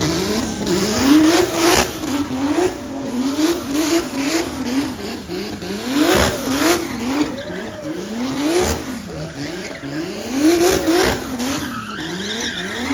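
Car engine revving hard again and again, its pitch climbing and falling in quick repeated swells, over the squeal of spinning tyres: a car doing a burnout or donuts.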